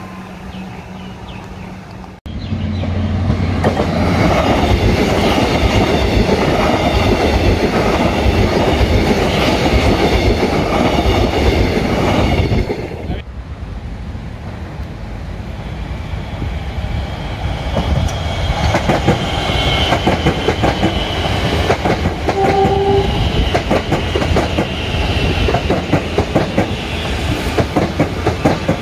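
Trains passing close by, in separately cut shots. First comes a long stretch of loud wheel-on-rail rumble with a steady whine. After a break, a Metro electric suburban train approaches and passes, its wheels clicking rapidly over rail joints, with a short horn note partway through.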